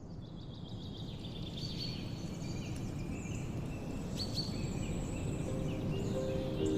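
Several birds chirping and trilling over a steady low background rush, fading in at the start. Soft sustained music tones come in about five seconds in.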